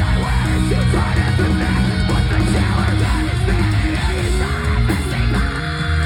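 Live post-hardcore band playing loud, with distorted electric guitars, bass and drums. It settles into a held, ringing chord near the end.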